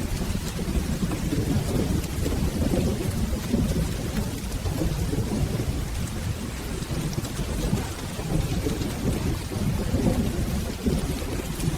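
Steady rain with a continuous low rumble of rolling thunder underneath, swelling and easing slightly.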